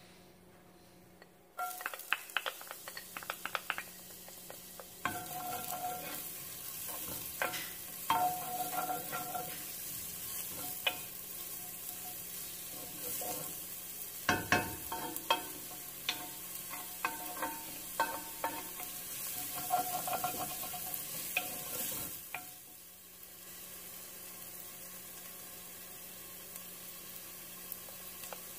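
Chopped shallots sizzling in hot olive oil in a pot, with a wooden spoon scraping and tapping against the pot as they are stirred. The sizzle and stirring drop quieter about three quarters of the way through.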